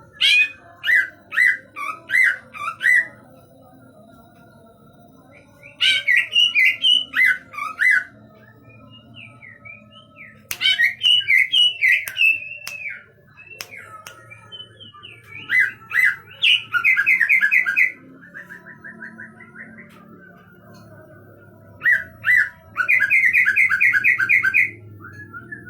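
Cucak ijo (greater green leafbird) singing in five loud phrases of quick sliding whistled notes and fast trills, with pauses of a few seconds between them.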